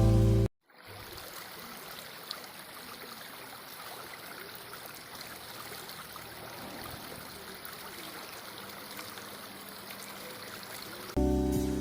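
Steady rush of running water, like a small stream, with no clear rhythm or pitch. Background music cuts off just after the start and comes back near the end.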